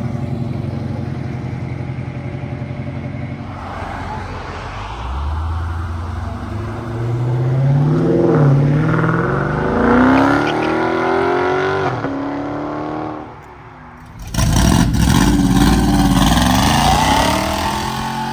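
Car engines leaving the show: an engine idles steadily, then revs and accelerates away with rising pitch. About 14 seconds in, another car launches hard with a sudden, very loud blast of exhaust that fades as it pulls away.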